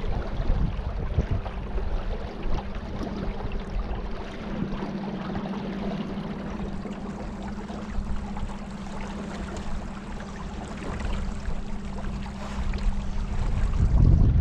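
Small boat motor running steadily with a low hum, over water wash and low rumbling buffets that swell loudest near the end.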